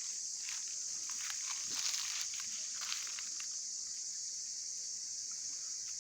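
A steady high-pitched insect chorus, with scattered faint rustles and crunches.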